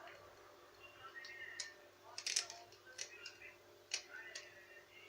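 Faint, irregular clicks and taps of small hard parts being handled, with about four sharp ones standing out, the loudest a little past two seconds in.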